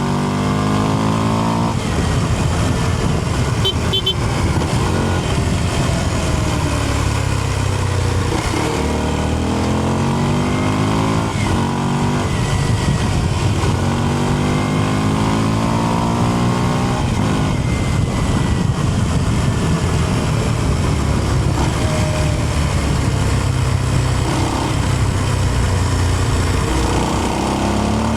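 Kawasaki KLX230's air-cooled single-cylinder engine under way, revving up and easing off again and again, its pitch climbing with each throttle opening and dropping back, over a steady rushing noise.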